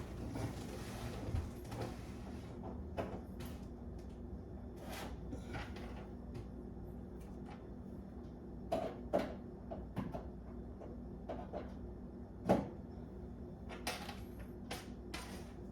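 A power cable being handled and plugged into a desktop gaming PC: scattered light clicks and knocks, the loudest about 9 and 12.5 seconds in, over a steady low hum.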